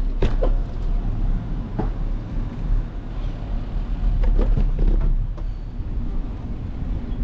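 Continuous low rumble of wind and road noise during a bicycle ride, with a few scattered clicks.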